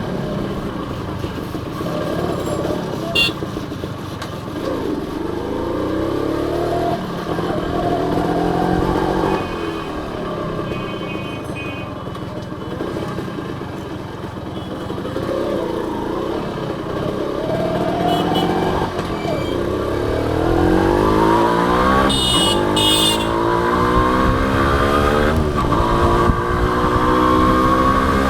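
Honda CDI H100S single-cylinder four-stroke motorcycle engine running on the move. Its note rises and falls with the throttle, then from about two thirds of the way in climbs steadily in pitch and grows louder as the bike accelerates.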